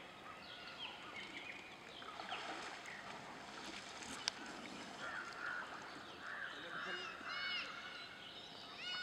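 Birds calling with short chirps throughout, and a run of quick, repeated arching chirps about two seconds before the end, over faint outdoor background noise. A single sharp click about four seconds in.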